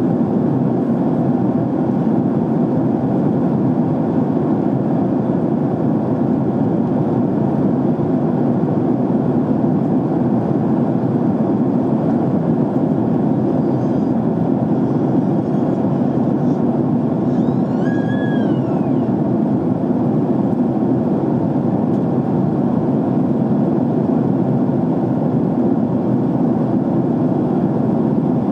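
Steady cabin noise of an airliner in flight, an even rumble of engine and airflow that holds unchanged. About eighteen seconds in, a faint short tone rises and falls over it.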